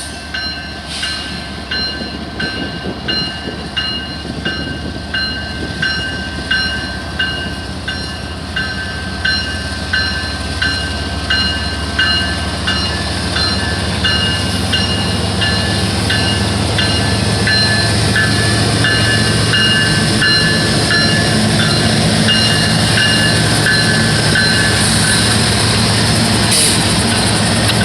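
A train approaching and passing a grade crossing. A crossing bell rings a little over once a second through most of it, while the train's low rumble grows louder and turns steady about halfway through.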